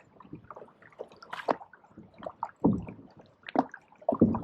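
Canoe paddles dipping and pulling through pond water: irregular splashes, drips and gurgles, with a sharper splash about a second and a half in.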